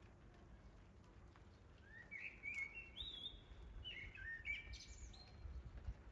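A songbird sings one phrase of short, clear notes that step and slide up and down, starting about two seconds in and lasting about three seconds. Underneath is a faint, steady outdoor background noise.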